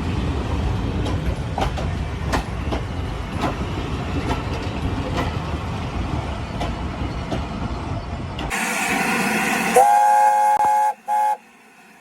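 A train running past, rumbling with its wheels clicking over the rail joints. Near the end a steam locomotive whistle sounds, one blast of about a second and then a short second one.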